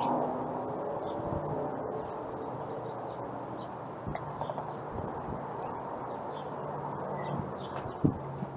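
Wild birds giving scattered short chirps and calls over steady low outdoor noise, with wind on the microphone. One sharp knock comes near the end.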